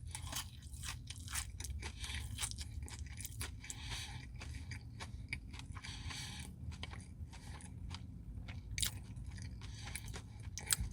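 Close-up mouth sounds of a person eating a Dairy Queen Blizzard with brownie pieces: quiet chewing and crunching with many small wet clicks, and a sharper click a little before 9 seconds in and another near the end.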